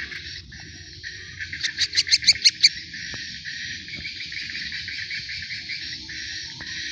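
Young birds chirping together in a continuous, rapid high chatter, with a run of about eight louder, sharper chirps a second and a half to two and a half seconds in.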